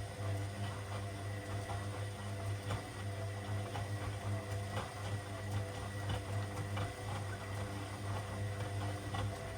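Washing machine running mid-cycle: a steady low motor hum with many small, irregular clicks and ticks over it.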